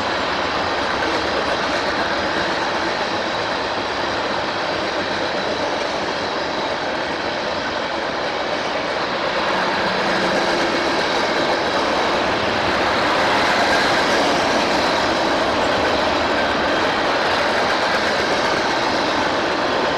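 A train rolling past on the main line, a steady rush of wheels on rail that swells slightly near the middle, with a faint high whine above it.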